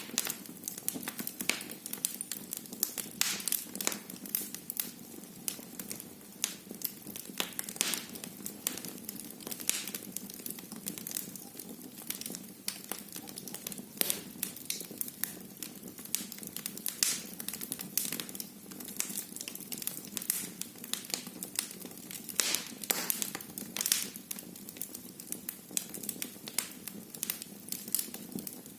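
Wood fire burning in a fireplace, crackling and popping with frequent irregular sharp snaps over a low steady hiss of the flames.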